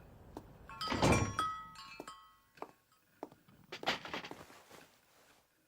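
A thunk with a brief metallic ringing, like a small bell, about a second in, then a few more knocks about four seconds in.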